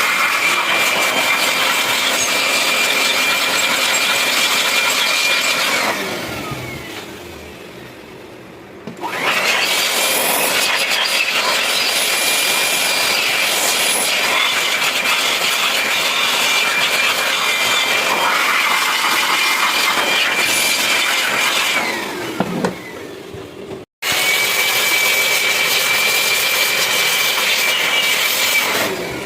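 Electric grinding power tool with a steady high motor whine, run in three long spells. After the first two spells the motor winds down, its pitch falling as it coasts to a stop.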